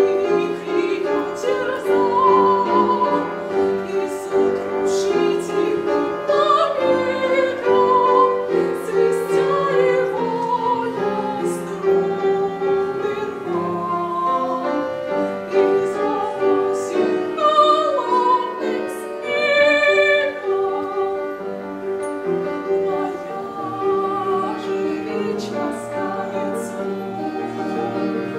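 A young female singer sings a classical romance in operatic style with vibrato, accompanied by a piano.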